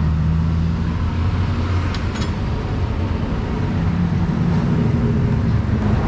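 Steady engine hum of a motor vehicle running close by, with road traffic noise. The pitch of the hum shifts a little about four seconds in.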